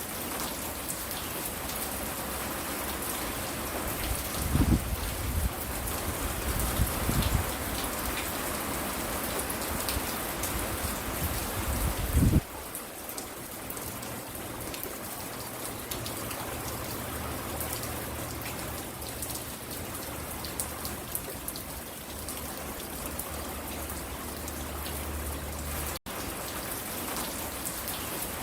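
Steady rain falling and spattering on the porch, a continuous hiss. Several low rumbles swell up between about four and twelve seconds in, the loudest sounds here, and the sound drops out for an instant near the end.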